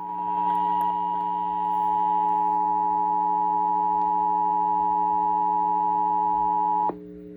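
Emergency Alert System attention signal: a steady two-note electronic tone that is held and then cuts off suddenly near the end. It signals that an emergency warning message is about to follow. A low steady hum runs underneath.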